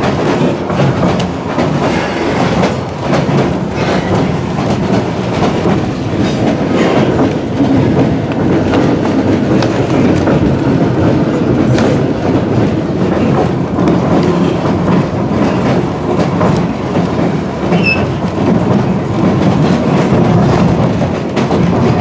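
White Pass and Yukon Route narrow-gauge passenger train running along the track. Its wheels make a steady loud rumble with light clacking over the rails.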